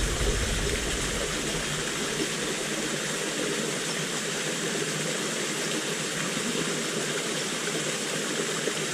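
River water rushing steadily, an even flowing noise.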